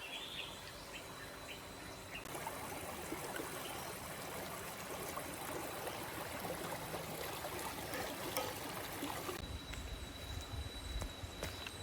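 Forest stream water running and trickling, starting abruptly about two seconds in and cutting off about two seconds before the end. Before and after it, a steady high-pitched insect drone.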